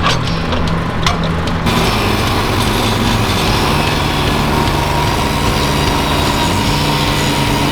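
Portable sawmill's small gasoline engine running steadily; about two seconds in, a loud hiss joins it and carries on.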